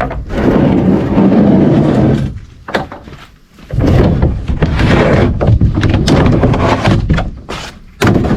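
Loud rumbling, rustling noise right on the microphone in three bursts: one at the start lasting about two seconds, a longer one of about three seconds in the middle, and a short one near the end.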